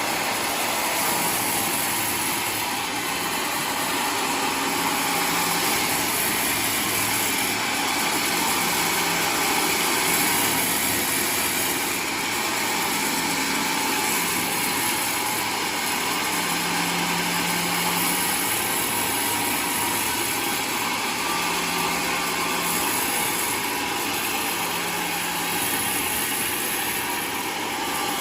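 Homemade sawmill running steadily, its engine and saw making a continuous machine noise with no pauses.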